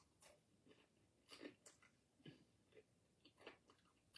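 Faint crunchy chewing of crispy pan-fried red snapper, fried without flour or cornmeal, heard as short crackles about every half second.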